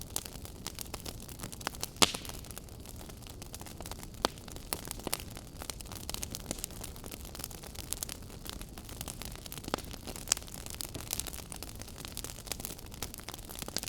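Wood fire burning in a fireplace, crackling with irregular sharp pops and snaps over a soft steady hiss; the loudest pops come about two seconds in, about four seconds in, and a little after the middle.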